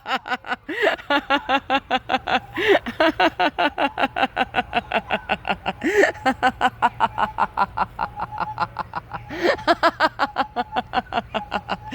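Sustained, deliberate laughter-yoga laughing: an unbroken run of rhythmic 'ha-ha' pulses from a person's voice, about five a second.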